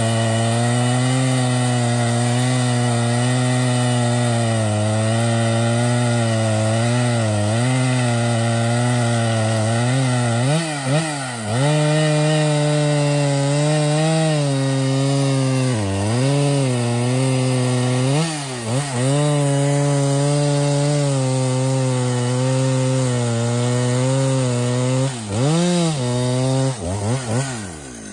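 Chainsaw at full throttle cutting through a tree trunk. Its pitch sags and recovers several times as the chain bogs in the cut, then falls away toward idle near the end.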